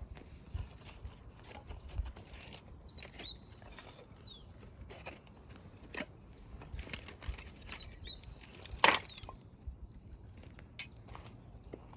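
Firewood burning in an open fire, crackling with scattered sharp pops, the loudest about nine seconds in. Wild birds give short high chirps around three to four seconds in and again near eight seconds.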